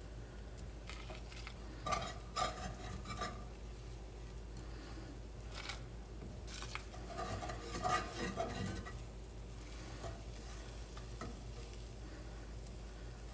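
A whisk stirring a butter-and-flour roux in a skillet, cooking it toward golden: the whisk clicks and scrapes against the pan in two spells, about two seconds in and again about seven to nine seconds in, over a faint sizzle.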